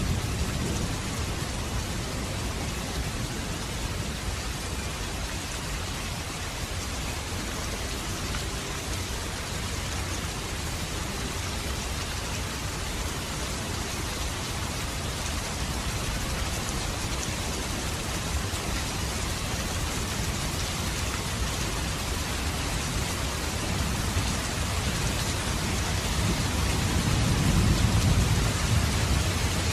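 Steady rain falling, an even hiss, with a low rumble of distant thunder building near the end.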